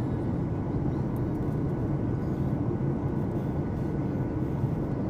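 Steady cabin noise inside a Boeing 737-800 with CFM56-7B engines: an even, low rumble of engines and airflow, without change.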